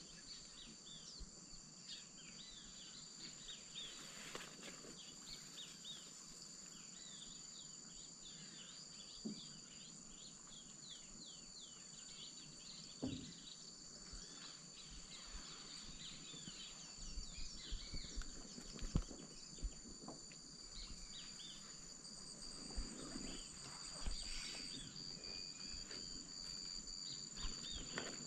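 Amazon wetland ambience: a steady high-pitched insect drone at two pitches, with many short chirping bird calls and a few low knocks, more frequent in the second half.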